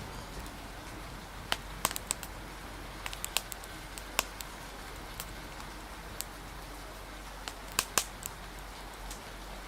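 Wood fire crackling, with sharp irregular pops in small clusters, over a steady hiss of rain and wind.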